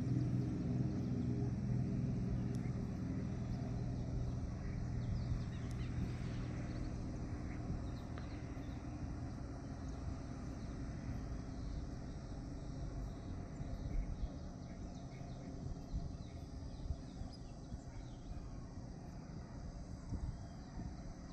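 Cessna T210L Turbo Centurion's turbocharged six-cylinder engine and propeller droning after takeoff, fading steadily as the aircraft climbs away until only a low rumble is left.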